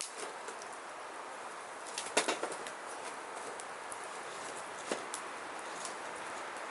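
Burning firewood crackling: a steady hiss with scattered sharp pops, the loudest cluster of pops about two seconds in and another sharp pop near five seconds.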